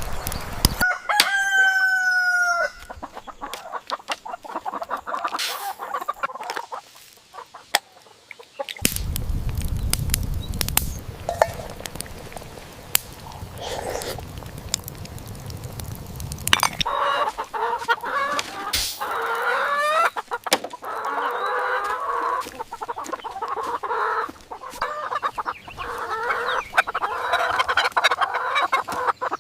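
Chickens: a rooster crows once about a second in, and from about halfway on hens cluck steadily. In between there is a stretch of low rumbling noise.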